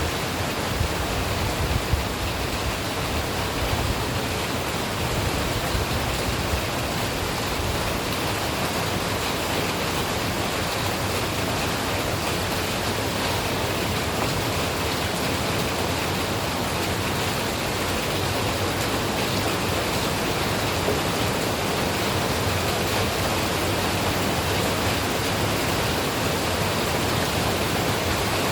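Steady rain, an even rushing hiss that neither rises nor falls.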